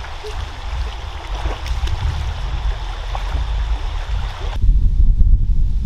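Water running and trickling, like a stream, with a few light knocks over a steady low rumble. About four and a half seconds in, the water sound cuts off and only a louder low rumble is left.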